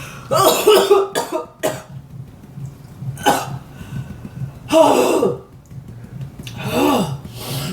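A person coughing and clearing their throat in a series of about six short coughs while eating very spicy instant noodles, from what they think went down the wrong way.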